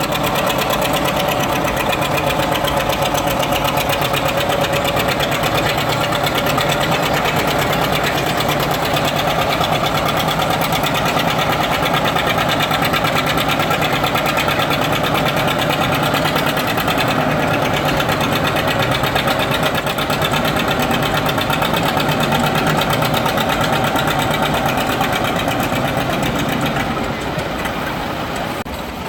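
Farm tractor engine running loud and steady, its level dropping off near the end.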